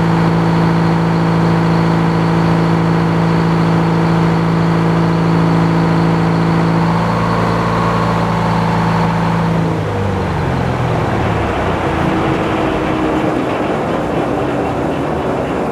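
Sawmill engine running at a steady pitch, then about ten seconds in its pitch steps down as it slows, leaving a steady rushing noise.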